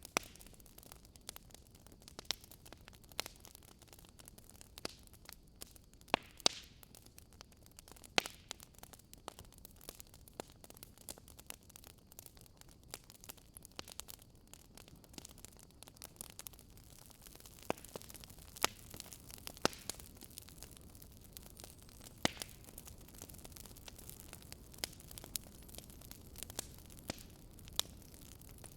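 Campfire crackling: burning wood giving irregular sharp pops and snaps over a soft steady hiss.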